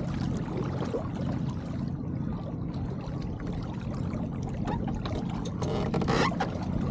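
Water trickling and sloshing along the hull of an Elliot 7.4 keelboat under sail, over a steady low rumble.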